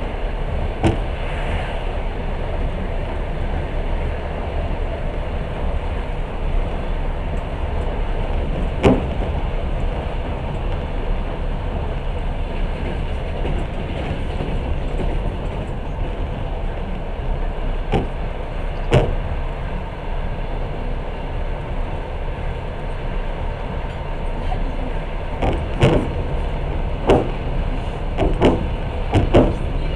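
Passenger train running at speed, heard from inside the carriage: a steady rumble of wheels on rails. Sharp knocks come now and then, singly at first and several close together near the end.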